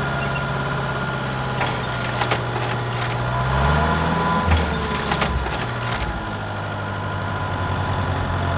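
An engine running steadily, with a brief rise in pitch about four seconds in and scattered clicks and knocks over it.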